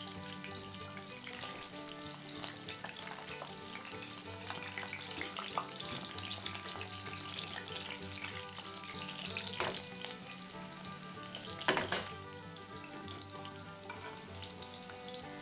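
Battered chicken pieces sizzling and crackling as they fry in oil in a frying pan. Metal tongs click against the pan a few times as the pieces are turned and lifted, with one sharper clack about three-quarters of the way through.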